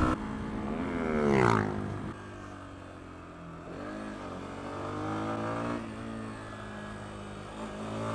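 Lexmoto Venom 125 motorcycle's single-cylinder engine heard from on board, its pitch falling as the bike slows and shifts down, then running at low, steady revs. There is a short rev blip about four seconds in, and the revs climb again near the end.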